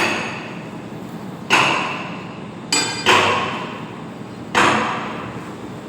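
Hammer striking steel while a Tata Hitachi excavator's ring gear is being changed: five blows at uneven intervals, each ringing out and fading over about a second.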